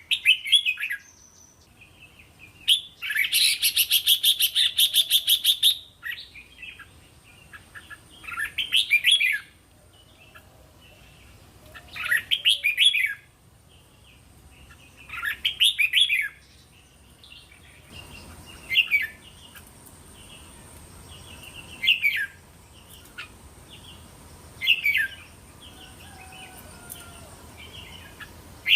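Red-whiskered bulbul singing short, chirpy song phrases every three seconds or so. Early on it gives one fast rattling chatter lasting about three seconds.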